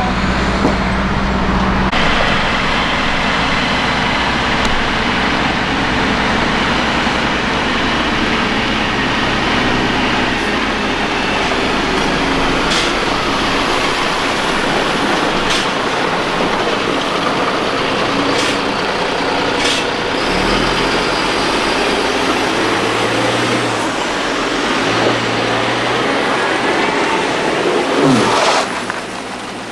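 Heavy military trucks' diesel engines running as the trucks drive, a steady engine and road noise whose engine note shifts now and then, with a few short sharp clicks midway.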